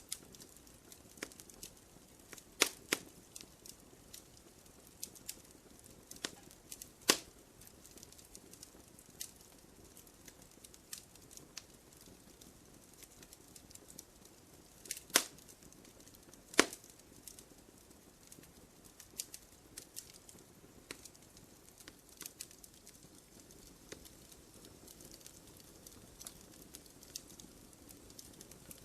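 Fireplace fire crackling: scattered sharp snaps and pops over a faint steady hiss, with a handful of much louder pops.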